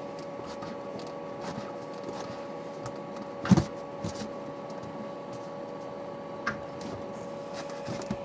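Clicks and knocks of tools and plumbing fittings being handled while water lines are disconnected from an RV water heater, with one louder clunk about three and a half seconds in. A steady hum runs underneath.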